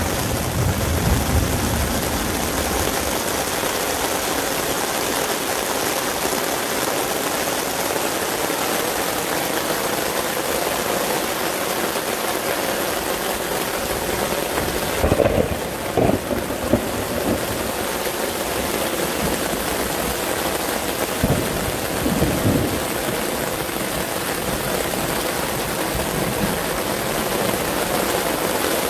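Heavy downpour of rain, a steady hiss, with a few short low rumbles about halfway through and again a few seconds later.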